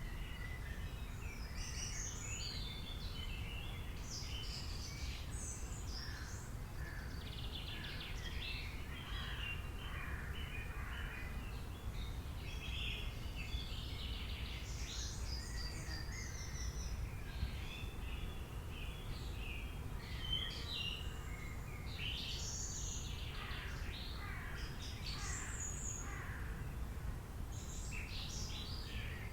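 Many birds chirping and singing, short calls overlapping one another throughout, over a steady low rumble.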